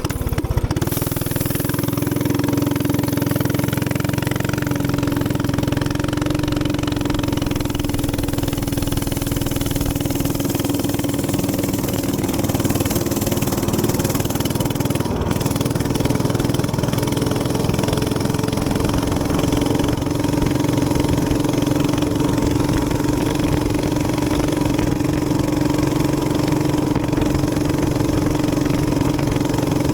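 Gas minibike engine running steadily at a nearly constant pitch.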